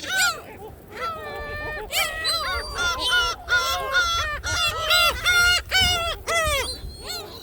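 A flock of gulls calling loudly, many harsh, arching cries overlapping in quick succession, with one longer held call about a second in.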